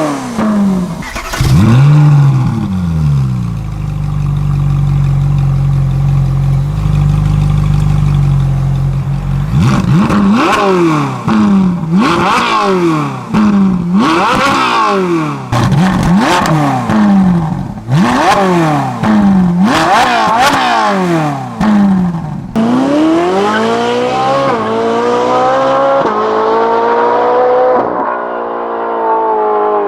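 Ferrari 458 Italia's 4.5-litre V8 engine revved hard: after being held at a steady pitch for several seconds, it is blipped up and down about once every two seconds. Then the car accelerates away, its pitch climbing steadily with brief dips at the gear changes.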